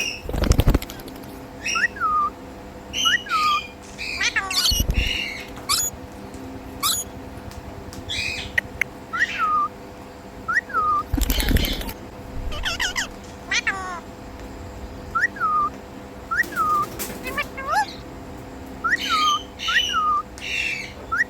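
Indian ringneck parrot calling over and over, short hooked whistled calls about once a second mixed with harsher squawks. Three louder noisy bursts break in, near the start, about five seconds in and about eleven seconds in.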